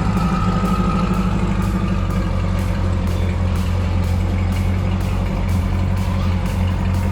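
Car-transport truck's engine idling steadily with a deep, even drone, under background music with a steady beat.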